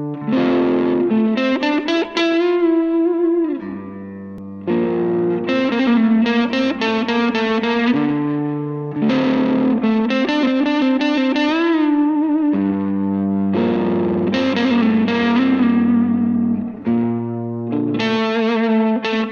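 Instrumental music led by an electric guitar with distortion and effects, playing a melody of held notes that bend and waver in pitch over lower sustained notes.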